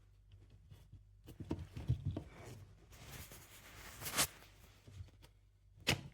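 Electric coffee grinder being handled just before it is switched on: scattered quiet clicks, taps and rustles, with a few sharper knocks about two, four and six seconds in.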